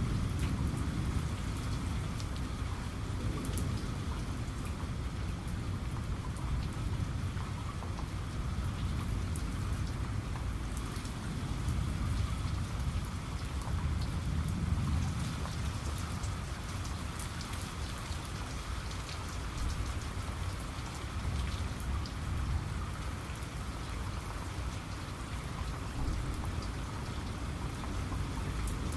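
Steady rain, with the patter of drops on a surface ticking through a continuous hiss. Under it runs a low rumble that swells near the start and again about halfway through.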